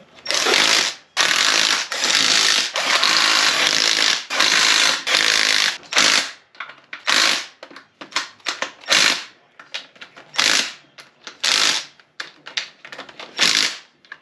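Power impact wrench running fasteners down on a transfer case in repeated bursts: long, nearly continuous runs at first, then short separate bursts toward the end.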